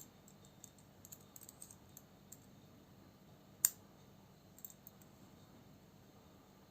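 Small metal knife parts and tools clicking and tapping during hand disassembly of a folding knife: a run of light clicks in the first two seconds or so, one sharp click about three and a half seconds in, and a couple more soon after.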